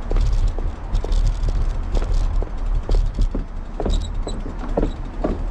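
Hard clacks, about two a second, of road-cycling shoe cleats striking pavement at a walking pace, over a steady low rumble of wind on the microphone.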